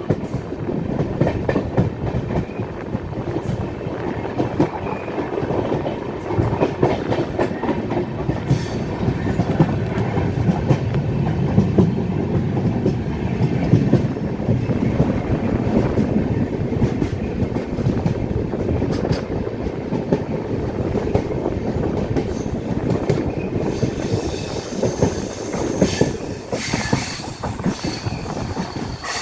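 Passenger express train running on the rails: a steady rumble with rapid clicking of wheels over rail joints. In the last few seconds a high-pitched squeal of wheels on rail joins in.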